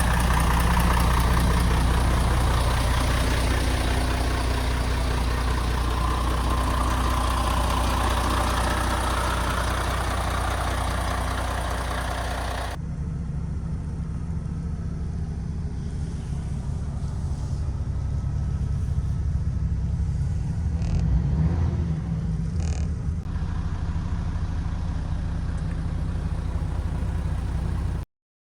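MAN TGX 26.440 tractor unit's six-cylinder diesel engine idling steadily. About halfway through, the sound abruptly turns duller and more muffled, with a few brief clicks near the end.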